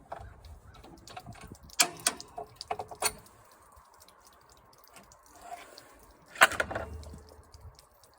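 Sharp knocks and clatter: a few quick ones about two to three seconds in, then a louder burst about six and a half seconds in.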